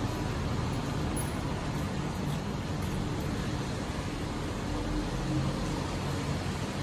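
Steady road-traffic noise: an even rumble of passing and running vehicles with a low engine hum.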